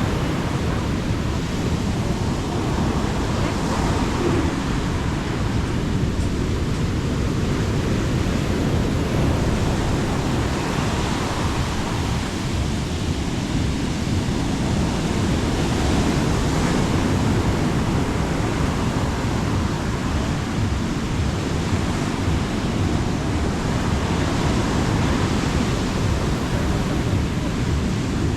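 Sea waves breaking and washing on a beach, a steady surf noise that swells and eases every few seconds, with wind rumbling on the microphone.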